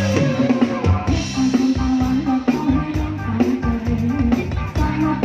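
Live band music with a drum kit keeping a steady beat under guitar and a bending melodic line.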